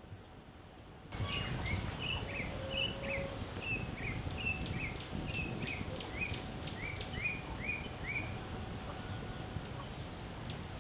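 A bird calling repeatedly in a run of short chirps, about two a second, over outdoor background noise. It starts about a second in, when the ambience comes up, and the chirps stop a couple of seconds before the end. A steady high-pitched whine runs underneath.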